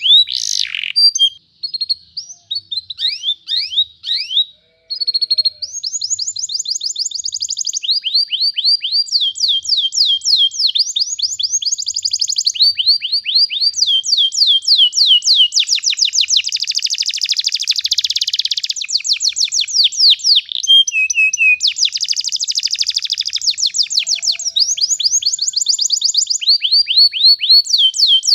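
Domestic canary singing a long rolling song: fast trills of repeated high notes, each run lasting a second or two before switching to a new one. It is broken by short gaps during the first five seconds or so, then runs on almost without a break.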